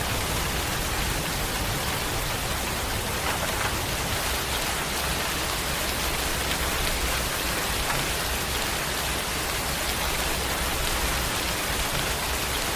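Steady rain falling and pattering on a surface, an even hiss with a low rumble underneath.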